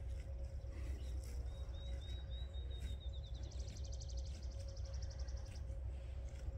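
A songbird singing: a few short high chirps, then a fast, even trill lasting about two seconds, over a low steady rumble and a faint hum.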